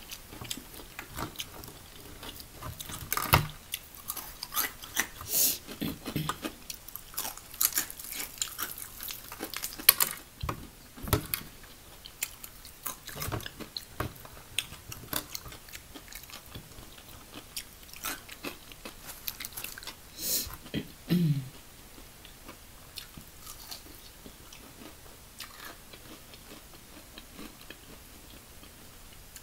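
Close-miked biting and chewing of crispy fried chicken wings: many short crunches, dense at first and thinning out over the last several seconds.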